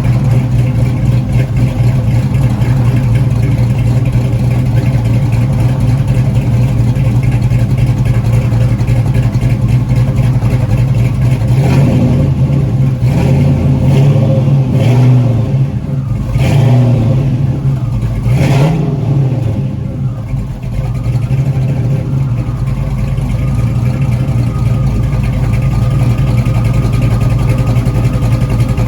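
1969 Pontiac Trans Am's 400 V8, fitted with a BTR Stage 2 cam, idling with a lumpy lope. About twelve seconds in, the throttle is blipped lightly about six times in quick succession. The engine then drops back to its loping idle.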